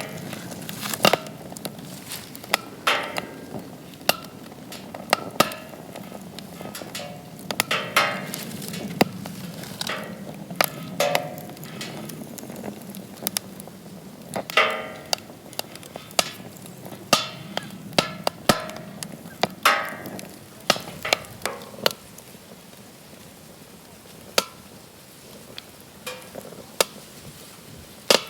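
Wood campfire crackling in a fire pit: sharp, irregular pops and short hissing spurts over a low, steady rush of flame. The pops come less often in the last few seconds.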